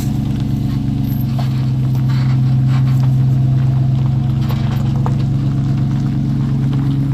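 A vehicle engine running steadily with a low, even drone, with a few faint knocks over it.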